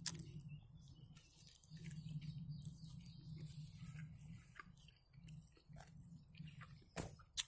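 Close-up chewing of a fried meat pie (belyash), with faint wet mouth clicks and smacks and two sharper clicks near the end.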